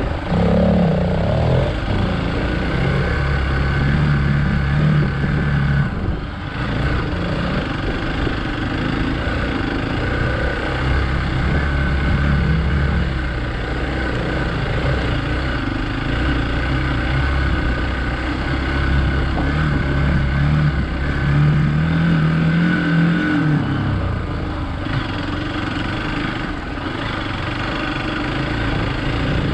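Hero Xpulse 200 single-cylinder motorcycle engine ridden off-road, its pitch rising and falling with the throttle.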